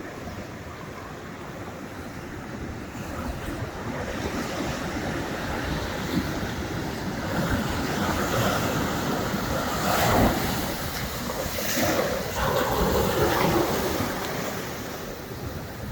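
Pacific surf breaking on the beach, a swelling wash that builds to its loudest about ten to thirteen seconds in and eases off near the end, with wind buffeting the microphone.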